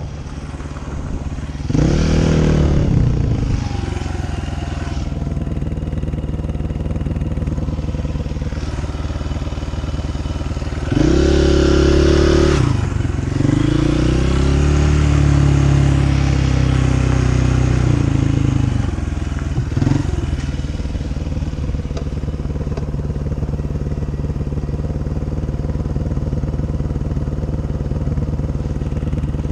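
Dirt bike engine running, with its revs rising and falling several times: sharp surges about 2 and 11 seconds in, a longer climb and drop after that, then steadier running through the second half.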